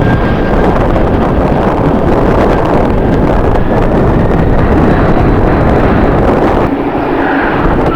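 Strong gusting wind buffeting the camera microphone in a loud, heavy rumble that eases slightly near the end.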